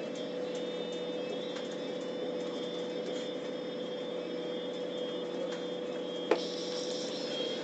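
Steady running noise inside a moving train carriage: a low rumble with a constant hum. A single sharp knock about six seconds in.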